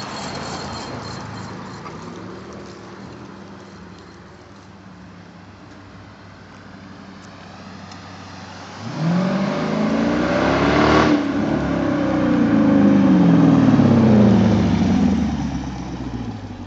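Dodge Charger R/T's 5.7-litre Hemi V8 through a custom exhaust, running low at first, then accelerating hard from about nine seconds in: the note climbs in pitch, breaks briefly near eleven seconds as at a gear change, climbs again, then falls in pitch and fades near the end.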